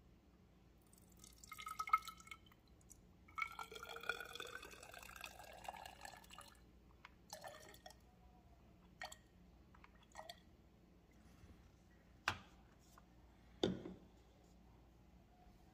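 Stove alcohol poured from a fuel bottle into a glass measuring cylinder, in two pours whose pitch rises as the cylinder fills. A few last drips follow, then two sharp knocks near the end.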